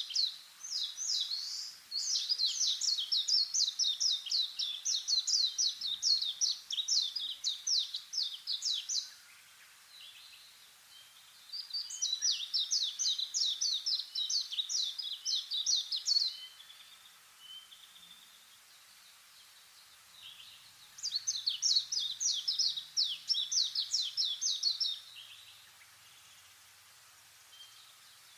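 A small songbird singing in repeated bouts of fast, evenly spaced down-slurred notes, each bout lasting several seconds, with quieter pauses holding a few faint chirps between them.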